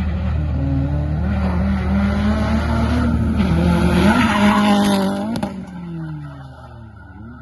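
Drift car engine held at high revs while the tyres squeal through a slide, building to its loudest about four to five seconds in. It cuts off sharply about five and a half seconds in, and the engine note falls away.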